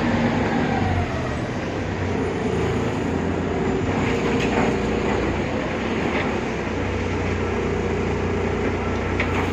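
BredaMenariniBus Avancity Plus city bus with a Deutz diesel and ZF 6HP Ecomat automatic gearbox running, a whine falling in pitch over the first second or so, then a steady hum.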